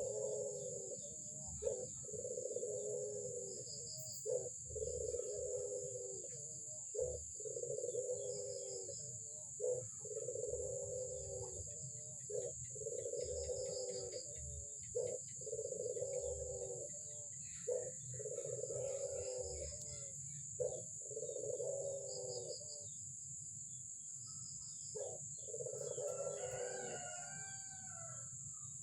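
Albino Barbary dove (puter) cooing over and over, with long low coos about every two seconds and short notes between them.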